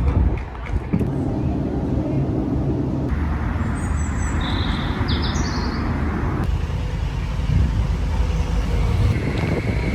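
Road traffic: a steady vehicle rumble with traffic noise, louder for a few seconds in the middle, and a few short high squeaks about four to five seconds in.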